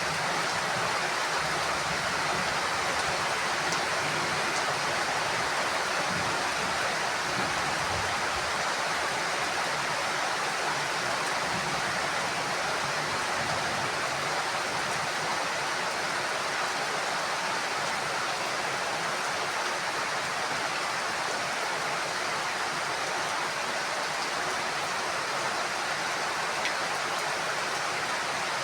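Heavy rain falling steadily on a house roof: a dense, even hiss.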